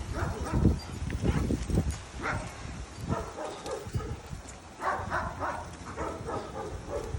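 A dog playing with a toy. There are low thumps and knocks in the first two seconds, then short vocal sounds from about five seconds in.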